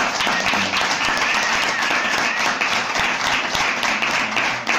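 Audience applauding at the end of a song: dense, steady clapping, with a faint wavering high whistle during the first half.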